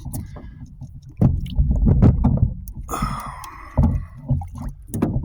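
Water splashing and sloshing as a largemouth bass is held at the surface for release beside a small boat, with scattered knocks and handling noise.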